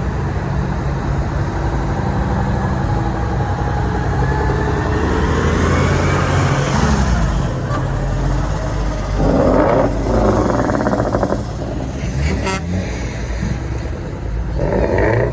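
Truck engines running in a parade, one rising in pitch as it pulls away, then a truck horn sounding a long blast and again briefly near the end.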